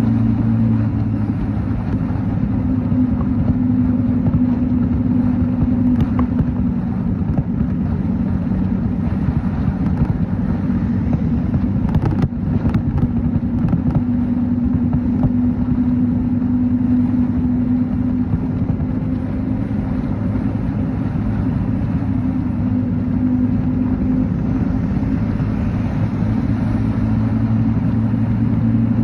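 Motorcycle engine running steadily while riding, with road and wind noise over it; its pitch eases down and picks up again a few times, and there are a few short clicks about twelve seconds in.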